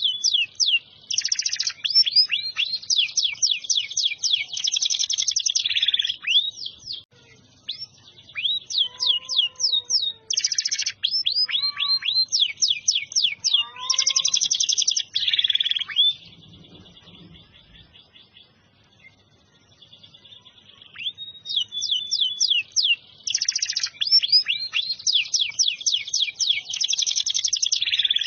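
Domestic canary singing actively, long phrases of fast rolling trills and repeated high notes. The song breaks off for several seconds a little past the middle, then starts again.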